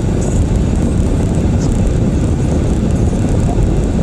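Steady low rumble of tyre and road noise inside a moving Toyota Prius cabin.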